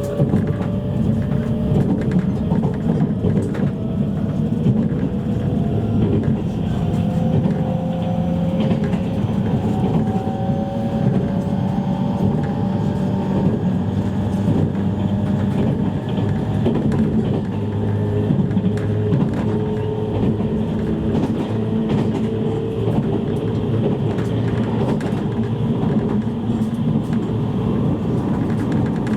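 Interior running noise of a JR East E653-series electric train: a steady rumble of the car on the rails, with a whine from the traction motor gear rising slowly in pitch over the first dozen seconds, then holding steady.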